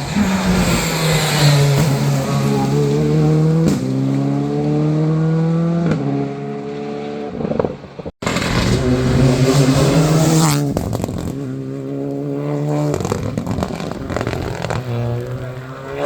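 Rally cars accelerating hard out of a hairpin, engine pitch climbing and dropping back at each upshift. There is a sudden break about eight seconds in, followed by another car pulling away through its gears.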